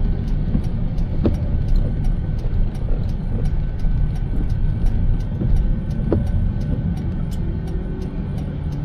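Car driving on a wet road: a steady low rumble of tyres and engine, with a few sharp ticks about a second in and again near six seconds.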